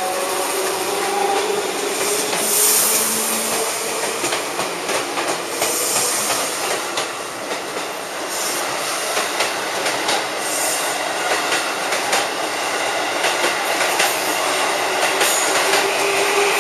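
JR 211 series electric commuter train pulling out of a station and gathering speed. The cars roll past with wheels clicking over rail joints, under a steady hum and a few brief high hissing bursts.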